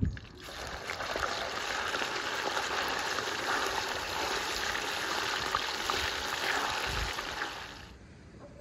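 Chicken fillet pieces sizzling and crackling in hot oil and butter in a large kazan. The sizzling cuts off suddenly near the end.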